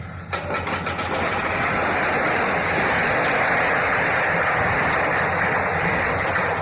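A train passing close by: a steady, loud rushing noise over a low engine hum, starting abruptly just after the start.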